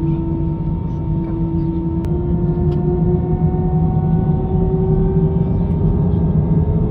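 Airbus A319 jet engines running with a steady whine over a low rumble; the whine rises slowly in pitch and the sound grows a little louder, as when the engines spool up for take-off.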